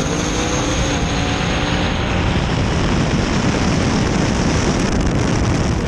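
Drag race car engine at full throttle on a pass, its pitch rising over the first second and then lost in a loud, steady rush of noise.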